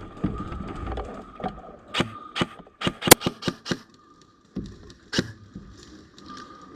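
Airsoft gun firing a quick run of single shots, sharp clicks about three a second for two seconds, then one more shot a little later.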